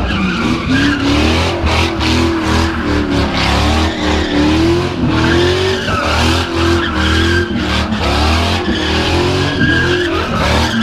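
A car engine revving up and down over and over, with tyres squealing as the car drifts or spins donuts. The squeal is loudest around the middle and near the end.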